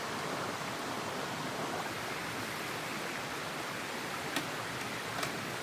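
Steady rushing of a mountain headwater stream, with two short sharp clicks near the end.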